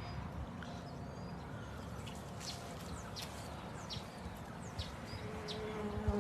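Birds chirping in short, high, downward-sliding notes over a steady low background hum, with a brief steady tone near the end.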